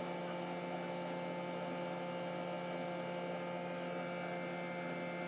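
Steady electrical mains hum, an even drone with no change in pitch or level.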